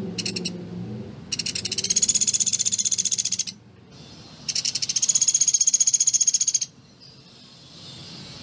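Sunda pygmy woodpecker (pelatuk beras) calling in rapid, high-pitched rattling trills: a short burst at the start, then two long trills of about two seconds each, separated by short gaps.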